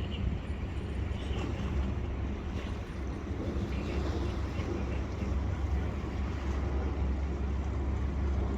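River boat's engines running with a steady low rumble and a wash of water and wind noise.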